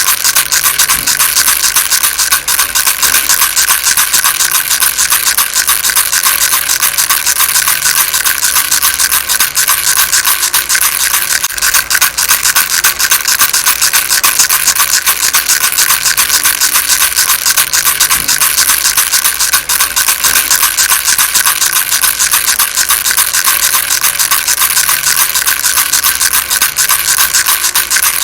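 Baby rattle shaken continuously: a dense, steady, bright rattling of many small pieces with no pauses.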